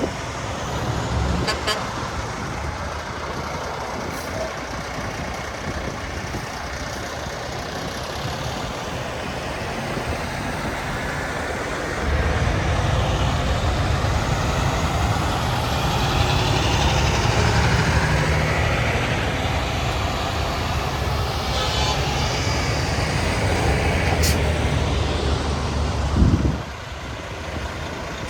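Semi trucks driving past on a road: a heavy truck's diesel engine rumble grows louder about twelve seconds in, with its pitch sliding as it passes, then drops away sharply near the end.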